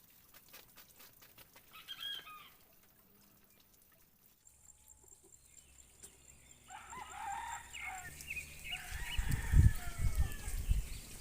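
Rooster crowing, a long call in several parts from about six seconds in, after a short chicken call about two seconds in. Heavy low thumps near the end are the loudest sounds.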